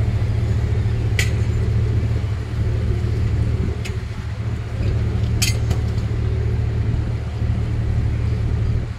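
Boat engine running with a steady low drone, with three sharp clicks at intervals.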